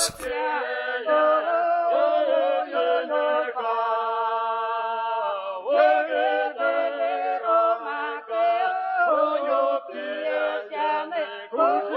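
Unaccompanied choir singing, several voices holding long notes and gliding between pitches.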